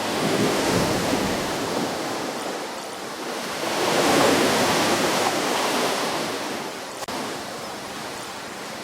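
Ocean waves breaking and washing onto a shore, with one surge just after the start and a bigger one about four seconds in before the wash eases off. There is a momentary gap in the sound about seven seconds in.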